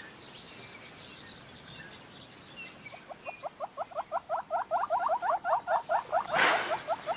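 An animal's fast call: a rapid run of short rising chirps, about eight a second, starting about three seconds in and growing louder, over faint bird chirps. A brief rush of noise cuts through it about six seconds in.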